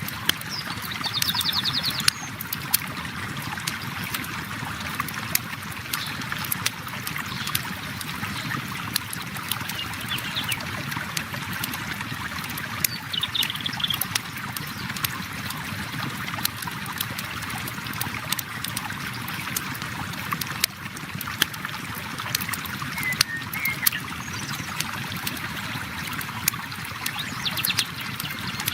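River water flowing steadily, with a wood campfire crackling over it in frequent sharp pops and snaps. A few short high chirps come near the start, about halfway and near the end.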